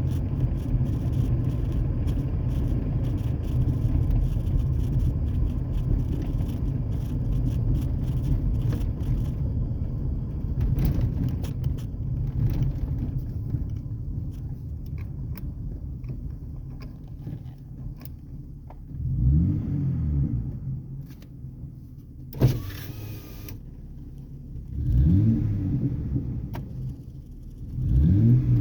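Muffler-deleted Ford Ranger 4.0L V6 exhaust heard from inside the cab: a steady low drone while cruising that eases off, then the engine revving up in three short rising pulls near the end, with a brief sharp noise between them.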